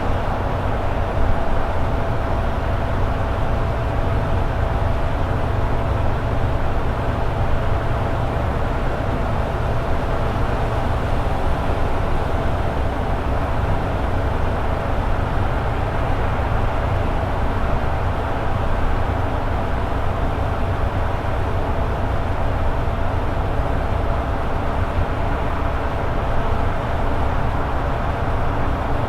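Toyota AE86 Sprinter Trueno cruising at steady highway speed: the four-cylinder engine runs at a constant pitch over steady road and tyre rumble, with no shifts or changes in revs.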